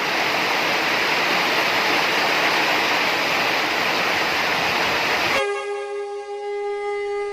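Steady rain falling, an even hiss. About five seconds in it cuts off abruptly, and a single long held note from a wind instrument takes over.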